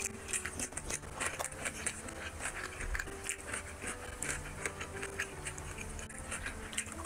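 Close-up eating sounds: chewing and lip-smacking of a mouthful of rice and curry, with many quick, irregular wet mouth clicks.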